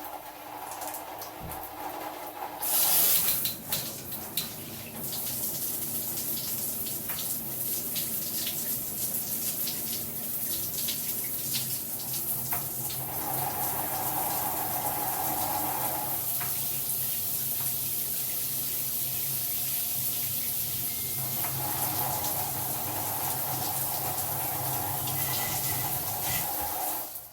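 Water spraying steadily from a Hibbent rainfall shower head, with a louder gush about three seconds in.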